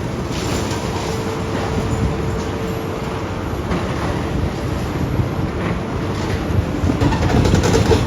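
Demolition excavator at work: a steady engine rumble with a faint steady whine, and scattered clattering and knocking of metal and debris that grows busier near the end.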